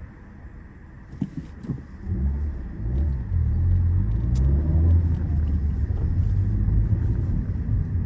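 Car engine and road rumble heard from inside the cabin of a Peugeot 207. It is quiet at first, then the car pulls away and the low rumble rises and becomes loud about two seconds in.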